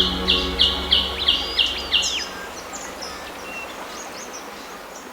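A bird calling a rapid series of loud repeated notes, about three a second, that stops about two seconds in, over a low steady hum that ends at the same moment. After that only a few faint chirps remain while the sound slowly fades.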